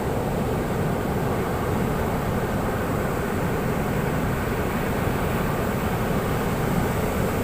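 Ocean surf breaking on a beach, a steady rumbling wash of waves with no distinct single crashes.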